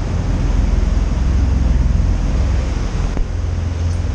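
A boat's engine running with a steady low rumble, mixed with wind buffeting the microphone and the rush of water against the hull.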